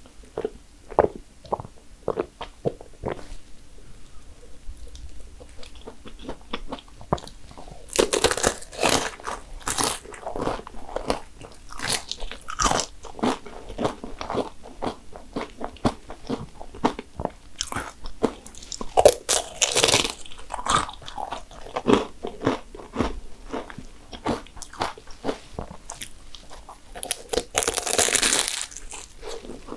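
Crisp fried cannoli shells crunching as they are bitten and chewed, a steady run of sharp crackles with a few louder bursts of crunching bites spread through.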